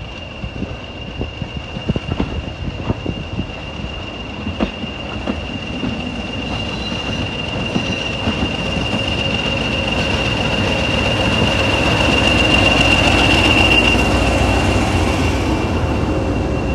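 Heritage diesel multiple unit and diesel shunting locomotive passing close by on the rails, with a steady high wheel squeal throughout. Clicks from the wheels over the track come in the first few seconds, and the train grows steadily louder, loudest a little after two-thirds of the way in as it goes past.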